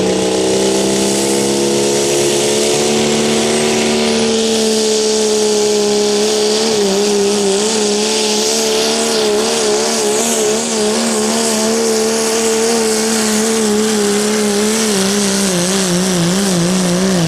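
Four-wheel-drive diesel pulling truck held at full throttle under the load of the pulling sled. The engine note stays high and steady, then wobbles up and down in pitch through the second half of the run.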